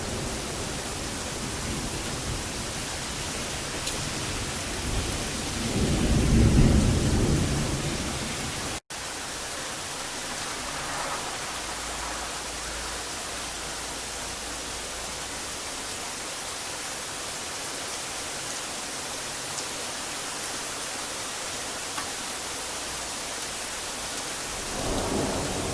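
Thunderstorm: steady heavy rain with rolling thunder, one rumble swelling and fading about six seconds in and another building near the end. The sound cuts out for an instant about nine seconds in.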